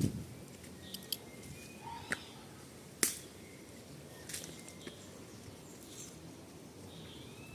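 Scattered short bird chirps and calls, with a few sharp clicks among them, the loudest click about three seconds in.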